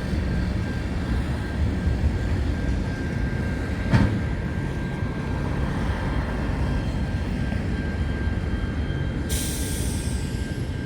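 Train running with a steady low rumble, a single sharp clack about four seconds in, and a hiss joining near the end.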